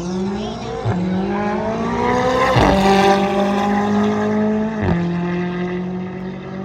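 A car engine accelerating hard through the gears. It climbs in pitch, drops sharply at three upshifts about 1, 2.6 and 5 seconds in, then pulls on more steadily.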